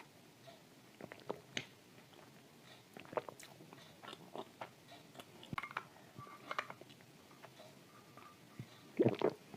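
Close-up chewing of dry shortbread cookie with thick clay paste: scattered small crunches and wet mouth clicks, with a louder bite near the end.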